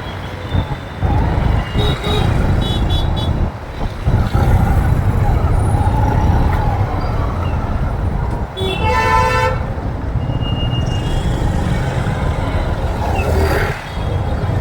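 City road traffic heard from a moving motorbike: a steady low road and engine rumble, with a vehicle horn honking for about a second around nine seconds in and a few short, higher beeps near the start.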